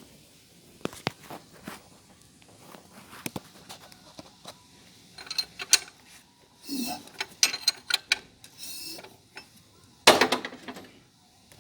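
Metal tool clicks and knocks as the engine's crankshaft pulley is turned by hand with a wrench for a compression check, with several short hissing rushes in the middle and a louder scrape about ten seconds in.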